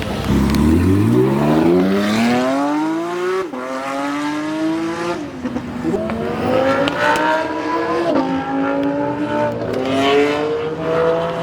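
A car accelerating hard away, its engine rising steeply in pitch and then climbing through the gears, with quick upshifts about three and a half, five and eight seconds in.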